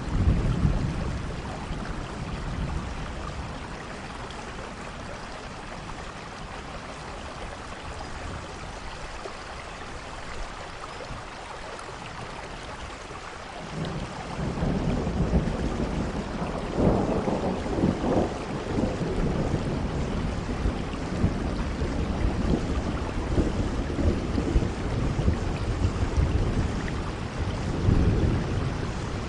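Steady rainfall with low rolling thunder: a rumble at the start, then a longer roll building about halfway through, swelling again a few seconds later and near the end.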